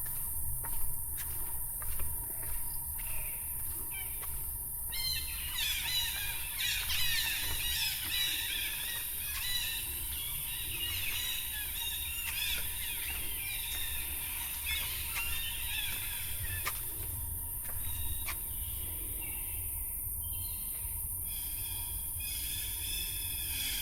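Jungle birds chirping and chattering, many calls overlapping, busiest from about five seconds in until about seventeen seconds. Under them runs a steady high-pitched insect drone.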